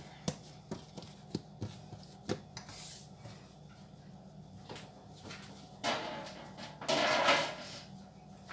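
Kitchen handling sounds: a string of light clicks and taps, then two short scraping or rustling noises about six and seven seconds in, the second one louder, as cookware is set out.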